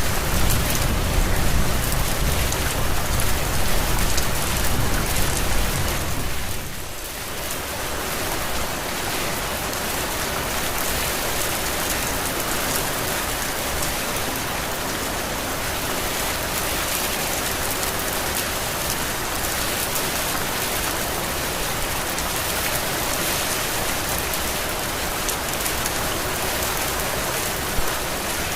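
Heavy rain falling steadily. A low rumble underneath it fades out about six seconds in, leaving an even hiss of rain.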